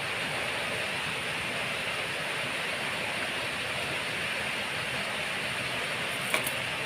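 Steady rain falling, an even hiss, with one sharp tap near the end.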